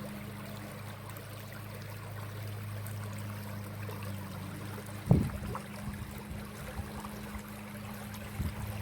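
Inside a moving vehicle: a steady low engine hum with road noise, and a single knock from a bump about five seconds in.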